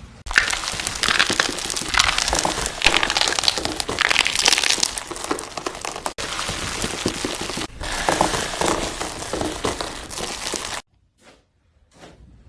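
Slime being squeezed and pressed by hand, giving a dense, loud crackling and crinkling, with two abrupt breaks about six and seven and a half seconds in; it stops suddenly near the end, leaving only a few faint clicks.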